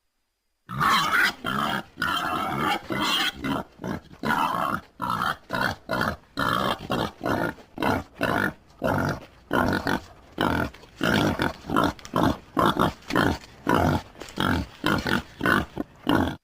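Wild boar grunting in a long, rapid series of short calls, about two to three a second, starting abruptly just under a second in.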